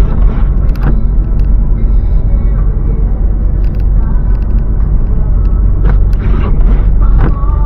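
Car driving, with a steady engine and road rumble heard from inside the cabin.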